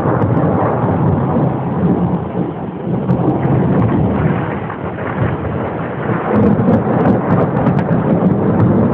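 Thunderstorm: heavy rain with thunder rumbling and rolling, easing briefly and swelling again about six seconds in.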